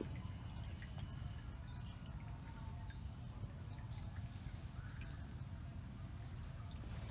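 A small bird chirping repeatedly, a short high chirp about once a second, over a faint steady low rumble.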